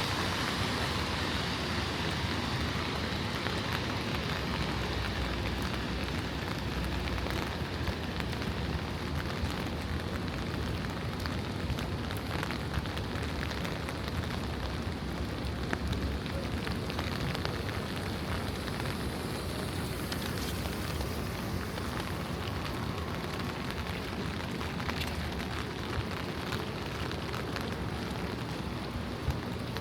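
Steady rain falling on a wet city street, with scattered sharp taps of drops and a low rumble of distant traffic underneath.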